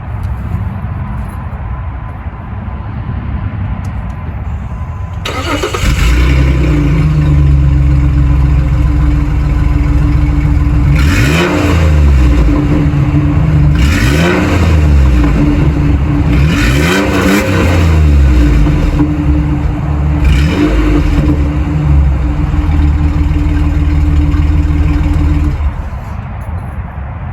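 Jeep engine starting about five seconds in and idling through its exhaust, revved four times with pitch rising and falling, then switched off near the end.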